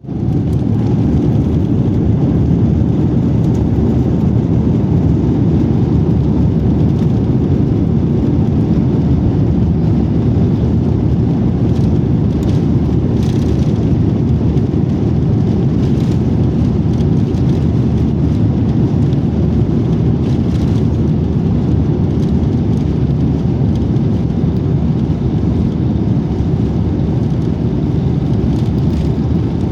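Airbus A350-900's Rolls-Royce Trent XWB engines at high power during departure, heard inside the cabin as a steady, loud, low rumble with a few faint knocks about twelve to fourteen seconds in.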